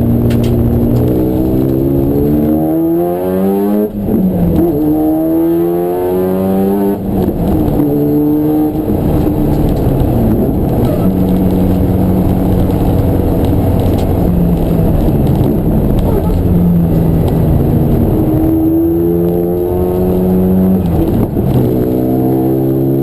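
Race car engine heard continuously, revving up through the gears with rising pitch and a sharp drop at a gear change about four seconds in, then holding and easing off through the middle before climbing again near the end.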